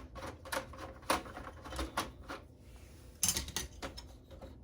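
Irregular small clicks and knocks of metal and plastic computer parts being handled and unscrewed during hand disassembly, with a brief flurry of sharper clatter about three seconds in.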